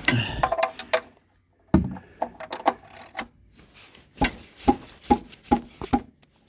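Scattered knocks, clicks and scrapes of a person getting down and crawling under a van on a garage floor and shifting things about. Near the end there is a run of fairly even knocks, about two a second.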